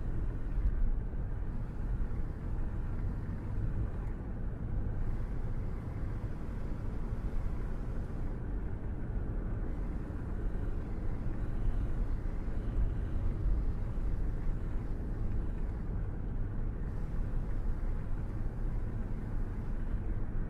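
Steady road and engine noise of a moving car, heard from inside the cabin: an even low rumble that holds throughout.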